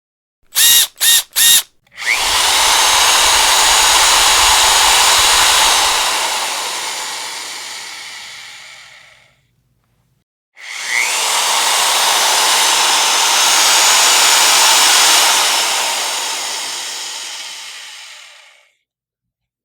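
Electric power drill: three quick trigger blips, then two long runs of a few seconds each with a short silence between. Each run starts with the motor's pitch rising and dies away gradually.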